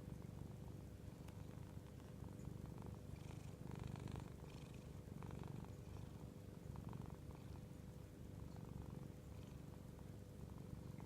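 Domestic cat purring steadily, a low even rumble, as it rests contentedly on a lap.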